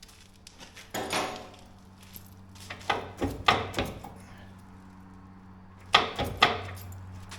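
Knocking and metallic rattling in three short clusters: about a second in, around three to four seconds in, and near six seconds in. A faint steady hum runs beneath.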